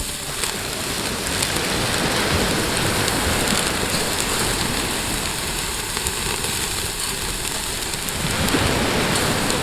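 Pork belly sizzling and spitting on a grill plate over a wood fire: a steady, rain-like hiss with faint scattered pops.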